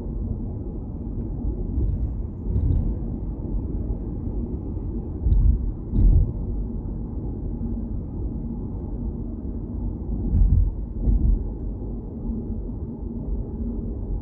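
Steady low rumble of a car driving on the road, with a few brief low thumps about two, five to six and ten to eleven seconds in.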